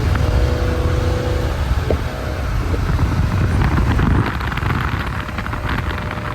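Car driving at speed: steady low engine and road rumble with wind noise.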